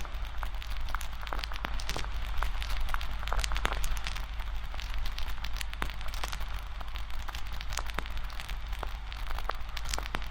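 Campfire burning with steady crackling and frequent irregular sharp pops from the wood.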